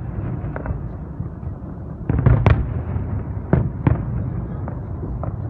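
Fireworks display: aerial shells bursting with sharp bangs, a quick cluster of three about two seconds in, then single bangs spaced through the rest, over a steady low rumble.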